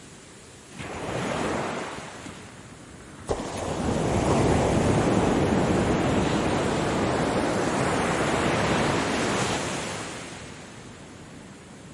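Ocean waves breaking on a shore. A small wave washes in about a second in, then a bigger wave breaks with a sudden crash a little after three seconds, rushes up for several seconds and then fades away.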